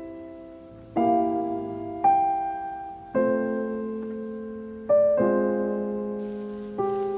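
Background music: slow piano chords, each struck and left to ring and fade, a new chord every one to two seconds.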